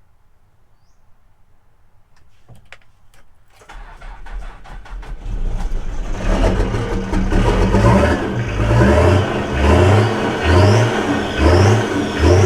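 Old truck's engine being cranked by the starter, catching after a couple of seconds and then revved in repeated throttle blips. It is the first start after the truck has sat for a few weeks.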